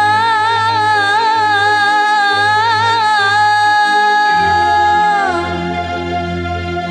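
A woman singing one long held note with vibrato at the end of a line of an Arabic qasidah song, the note gliding down and ending about five seconds in. Band accompaniment with a steady bass plays underneath and carries on after the voice stops.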